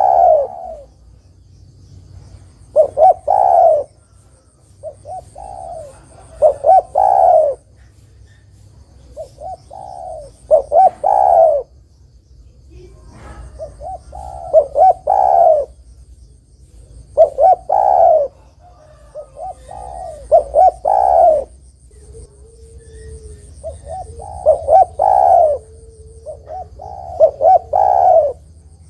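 Spotted dove (tekukur) cooing: a phrase of several quick coos, repeated about every three to four seconds, some phrases softer than others.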